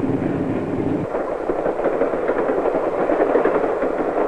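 Passenger train running along the rails: a steady rushing clatter, its low rumble falling away about a second in.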